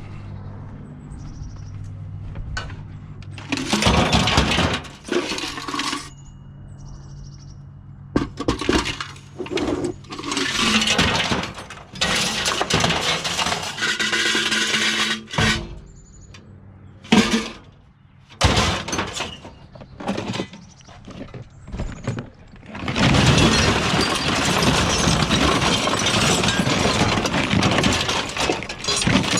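Scrap metal clattering and rattling in repeated bursts of a few seconds, with sharp knocks, as pieces are handled and dumped. A low steady hum runs underneath.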